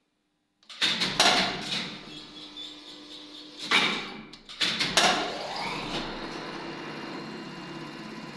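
Lift machinery starting: a few loud clacks in two clusters, then an electric lift motor winding up in pitch and settling into a steady running hum.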